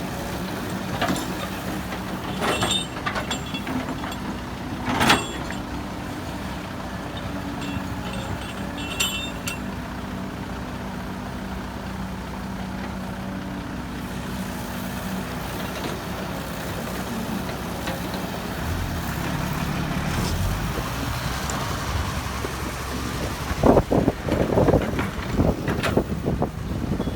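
Heavy diesel machinery engine running steadily, with a few sharp metallic clanks in the first five seconds. The engine grows louder late on, and loud irregular knocking and crunching follow near the end.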